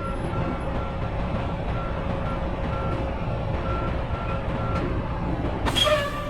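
Backup alarm beeping about twice a second over a truck's low diesel engine rumble as the rig reverses into a loading dock. A loud, short burst of hissing noise comes near the end.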